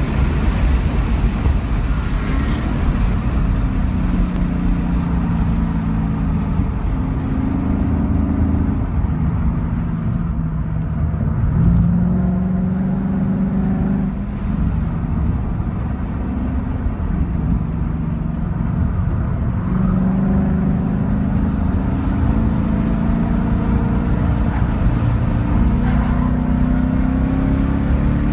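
2015 Ford Mustang engine under hard track driving, its pitch climbing in steps as it accelerates and falling as it slows for corners, several times over, beneath a heavy low rumble of road and wind noise.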